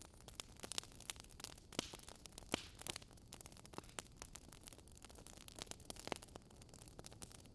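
Wood fire crackling faintly, with irregular sharp pops and snaps and a couple of brief hissy flares over a low steady hiss.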